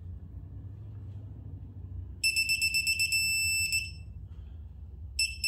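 Digital torque wrench beeping as the bolt reaches the 30 foot-pound setting: a quick run of high beeps that runs into a steady tone of about a second and a half. It starts about two seconds in and begins again near the end.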